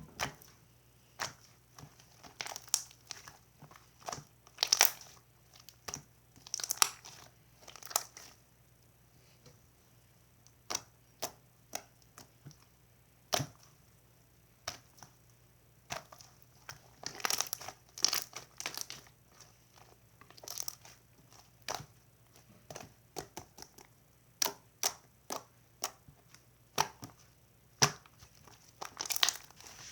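Irregular crinkling and crunching noises with sharp clicks, coming in uneven clusters.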